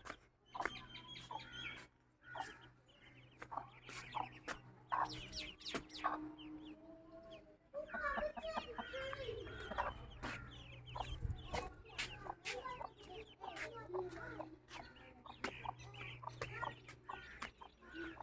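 A hen clucking among a crowd of chicks peeping, many short high calls overlapping, with scattered sharp ticks.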